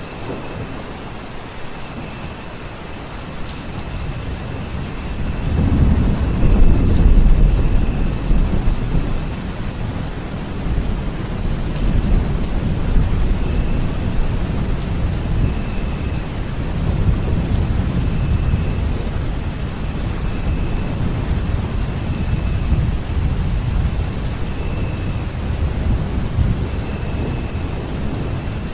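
Steady rain with thunder: a low rolling rumble builds about five seconds in, is loudest a couple of seconds later, and keeps rumbling under the rain.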